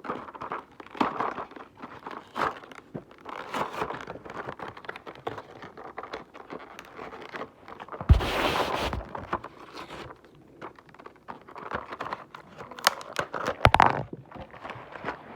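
Cardboard box and plastic packaging of a small toy being opened by hand: crinkling, rustling and scattered clicks, with a louder rustle lasting about a second some eight seconds in.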